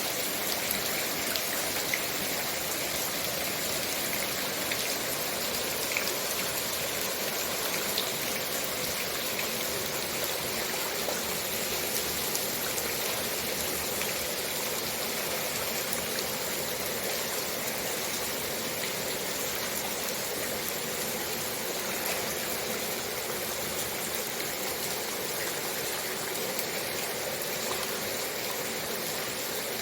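Heavy rain falling steadily: a constant even hiss with scattered faint drop ticks.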